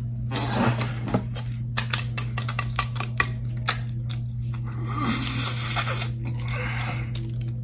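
Hard, overcooked fries crunching while being chewed: many sharp clicks. Then, about five seconds in, a paper straw wrapper rustles and tears as it is pulled off a plastic straw. A steady low hum runs underneath.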